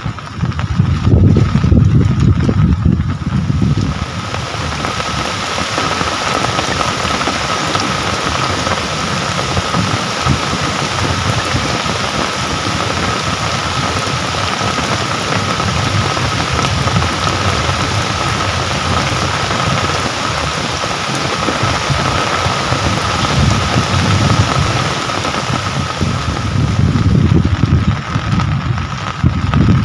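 Steady rain falling, a dense even hiss, with a thin steady tone running through it. A low rumble comes in over the rain for the first few seconds and again near the end.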